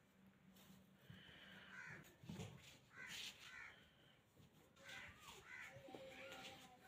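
Faint bird calls in three short bouts of harsh, bending calls, with a soft low thump just after two seconds in.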